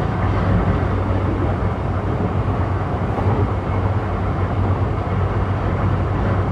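Interior running noise of a JR East E235-1000 series electric train under way: a steady rumble of wheels on rail with a low hum underneath.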